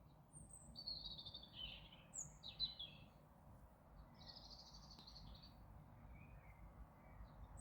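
Faint high chirps and short twittering phrases from small songbirds, several in the first three seconds and another longer phrase about five seconds in, over a steady low outdoor rumble.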